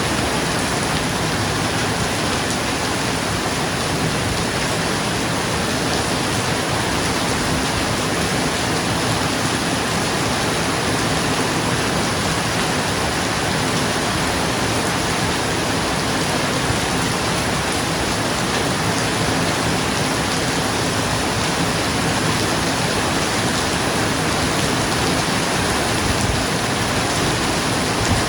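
Steady, even rain falling on a roof, with no distinct thunderclap.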